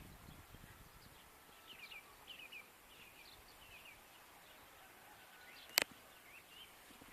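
Small birds chirping in short, high notes that fall in pitch, over a steady hiss of light wind. A single sharp click comes near the end.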